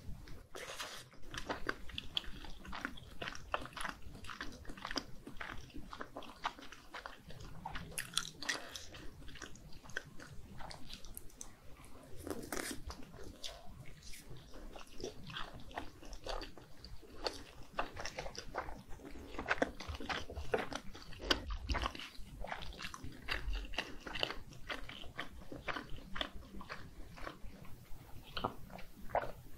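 Close-miked biting and chewing of skewered spicy red fish cake (eomuk), a dense run of small mouth clicks.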